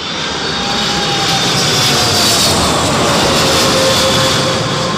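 Boeing 777 jet airliner passing low overhead on final approach. The engine noise swells to a peak about halfway through and then eases off, with a whine that falls in pitch as it goes by.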